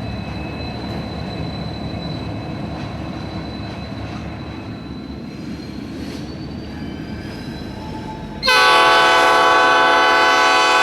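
Train rumbling across a through-truss bridge. About eight seconds in, the diesel locomotive's air horn cuts in loud, a steady multi-note chord that is still held at the end.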